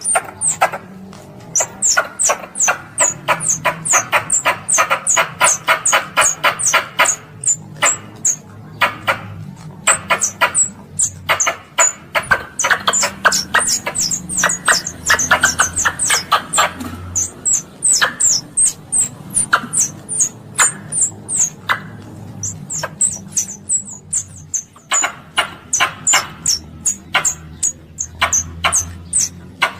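Squirrel calling: a long run of short, very high-pitched chirps, two or three a second, joined twice by a fast lower rattling chatter lasting several seconds.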